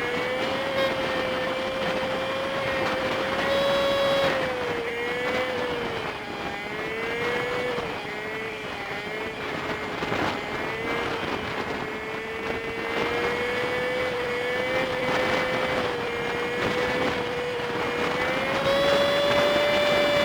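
Honda Super Cub 50's small single-cylinder engine running on the road, with wind and road noise, heard sped up fivefold so the engine is a steady high hum that rises and falls gently with the throttle.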